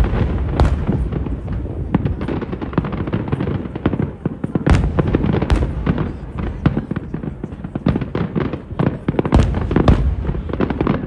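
An aerial fireworks display going off in a dense barrage of overlapping bangs and crackles. The heaviest booms come at the start, around the middle, and near the end.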